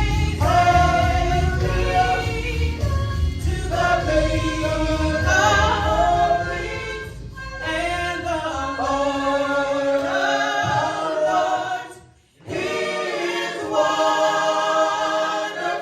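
Gospel choir singing held notes in harmony. A low accompaniment sits under the first several seconds and then fades, leaving the voices nearly alone. The singing breaks off briefly about twelve seconds in and then resumes.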